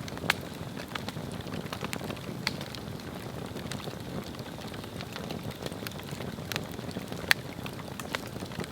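Swedish torch log fire burning with a steady low roar, crackling and popping at irregular moments, with a sharp louder pop just after the start and another near the end.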